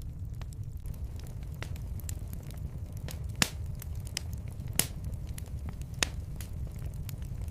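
Fire in a fireplace crackling, with scattered sharp pops over a steady low rumble; three louder pops come near the middle.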